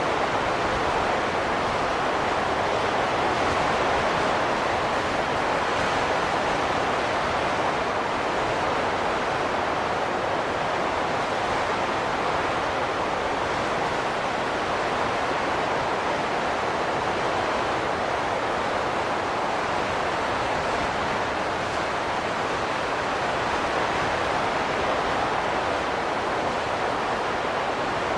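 Steady rushing wind, an even noise without whistling tones that swells and eases only slightly.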